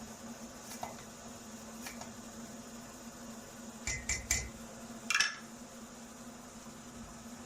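Kitchenware clinking during cooking: a quick run of three clinks about four seconds in, then a single ringing clink a second later, over a steady low hum.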